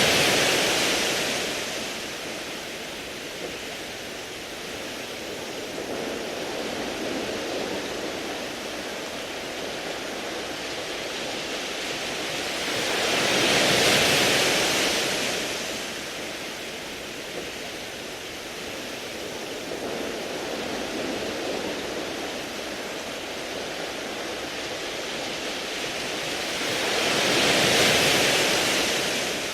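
Sea waves washing over a beach of round pebbles: a continuous hiss that swells and falls back, peaking about every fourteen seconds, at the start, about halfway through, and near the end.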